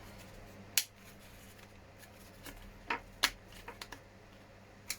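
Small injection-moulded plastic seats being pressed onto a scale RC truck's interior tray: a few sharp plastic clicks a second or two apart, the loudest about a second in and just after three seconds, with softer ticks of handling between.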